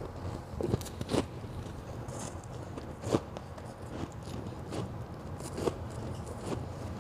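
Close-miked biting and chewing of hard white ice, with sharp crunches about a second in, around three seconds and near six seconds, and softer crackling chews between them.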